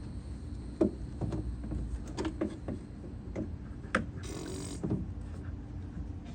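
A string of light knocks and clicks from hand work on a car's body panel, over a steady low hum, with a short scraping hiss just after four seconds in.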